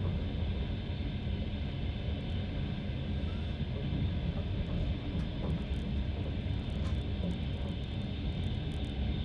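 A passenger train running at speed, heard from inside the carriage: a steady low rumble of wheels on the rails and running noise.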